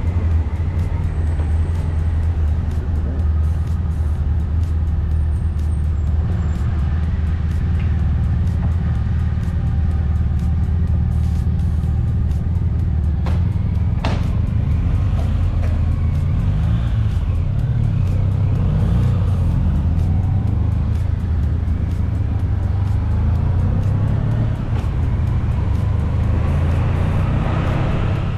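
Honda ST1100's V4 engine running steadily at road speed, heard from the moving motorcycle together with the rush of wind.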